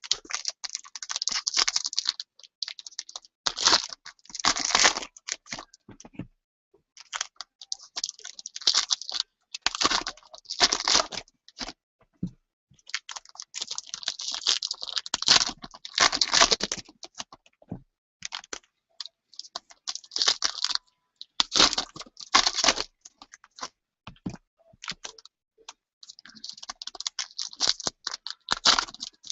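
Packaging of a box of trading cards being torn open and crinkled by hand: irregular bursts of crackling and ripping wrapper, with short pauses between them.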